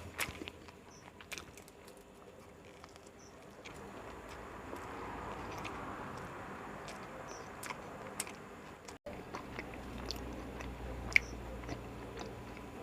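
A person chewing and biting into an Indian egg roll close to the microphone: scattered wet mouth clicks, with one louder click about 11 seconds in.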